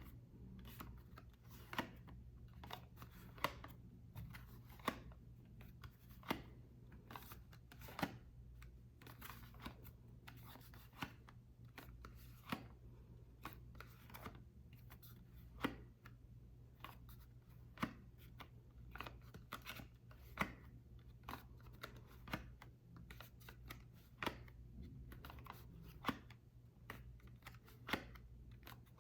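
Dry bar soap being worked by hand, giving short crisp crunching and cracking strokes at an uneven pace, roughly one every second or two, over a steady low hum.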